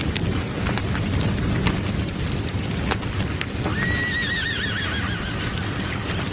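A horse whinnying once, about four seconds in: a wavering call that falls in pitch, over the steady crackling and hiss of a large bonfire.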